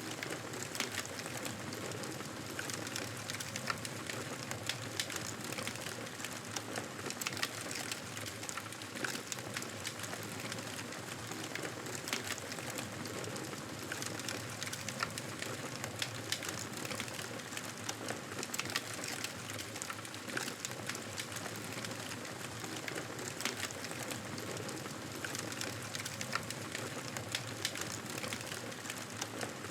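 Wood fire crackling: a steady hiss with many small, sharp pops scattered irregularly throughout.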